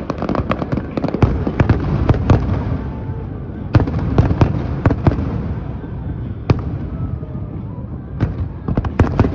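Fireworks display: a dense run of bangs and crackles over a continuous low rumble, with louder single bangs about four, five and six and a half seconds in, and a quick cluster near the end.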